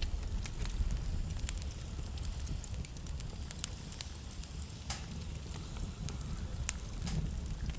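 Wood fire burning in a fireplace, with a steady low rumble and scattered sharp crackles and pops from the burning logs.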